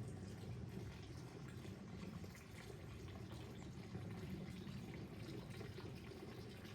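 Steady rain falling: a dense patter of drops over an even low wash of water.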